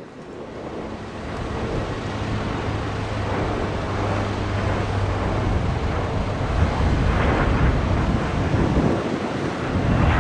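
Elizabeth Line Class 345 Aventra electric train approaching, a broad rumble that grows steadily louder, with a steady low hum underneath.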